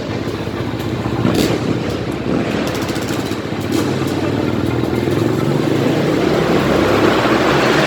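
Motocross bike engines running as the riders warm up, the pitch shifting as they ride, with a couple of brief sharp noises.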